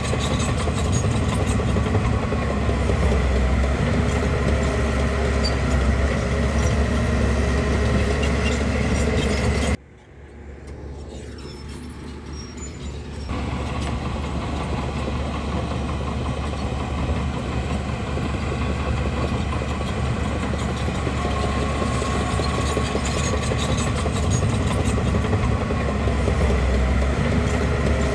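Bulldozer's diesel engine running steadily with a deep rumble. Just under ten seconds in, the sound cuts off abruptly to a much quieter level, then builds back up over the next few seconds and runs on steadily.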